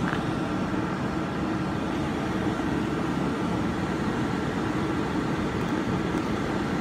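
Class 350 electric multiple unit running into the platform, a steady rumble with a faint steady whine above it.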